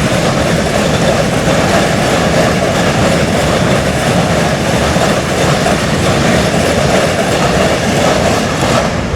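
Freight train of 37 wagons behind a China Railways SS3B electric locomotive rolling past at speed: a steady, loud noise of steel wheels running on the rails.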